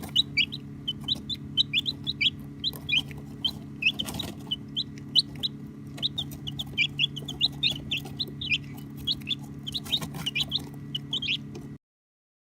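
A flock of baby chicks peeping continuously, many short, high chirps a second, over a steady low hum. The sound cuts off suddenly near the end.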